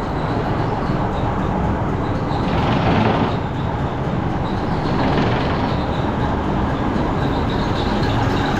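1974 Mack R Model's diesel engine idling steadily, freshly back together after a bent pushrod was replaced and the valves were rechecked, with its idle speed being set.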